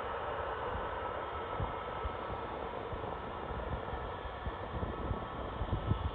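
Pratt & Whitney geared-turbofan engines of a taxiing Airbus A320neo, a steady distant jet rush with a faint whine. Brief low thumps of wind on the microphone come more often near the end.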